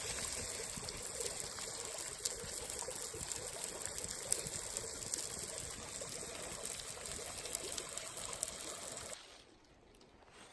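Water trickling steadily, with small crackles through it, cutting off abruptly about nine seconds in.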